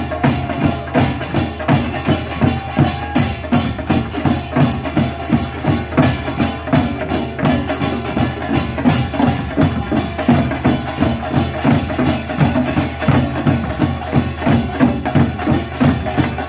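Korean traditional percussion troupe playing pungmul: drums and small gongs beaten in a fast, driving rhythm, several strikes a second.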